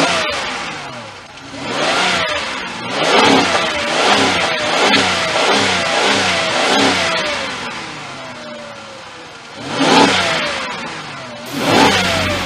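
Car engine being revved in a series of quick blips, the pitch falling away after each one, then two sharper revs near the end.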